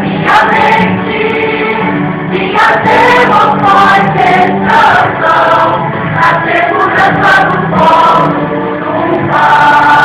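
Choir singing a gospel song.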